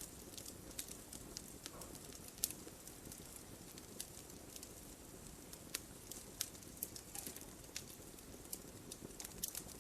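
Wood fire burning in a fireplace: a low steady rumble of flame with sharp, irregular pops and crackles of the burning logs.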